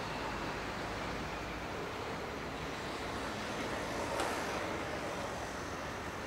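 ICE 3M high-speed train rolling slowly over the station points: a steady rolling noise with one sharp click about four seconds in.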